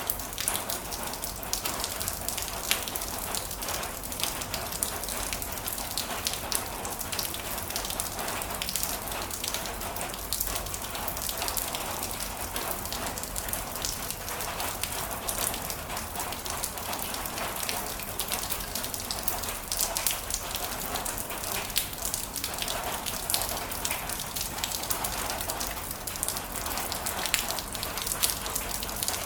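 Heavy rain falling steadily, a dense patter of drops hitting surfaces with no let-up.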